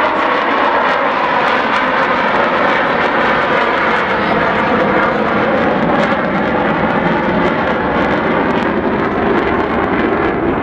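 Avro Vulcan XH558's four Rolls-Royce Olympus jet engines running in a flypast, a loud, steady jet rush.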